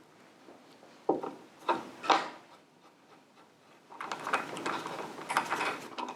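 Three sharp knocks a little over a second in, then from about two-thirds through a busier stretch of clicking, clattering and rubbing, like hard objects being handled and set down.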